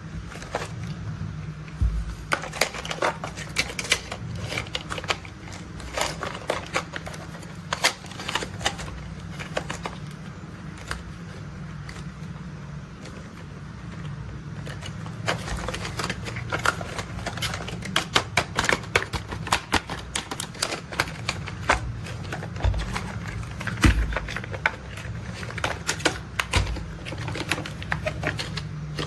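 Plastic toy construction vehicles being handled: rapid, irregular clicks and rattles over a steady low rumble.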